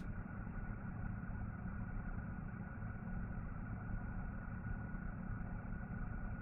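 Steady machine hum with a faint constant whine, unchanging throughout.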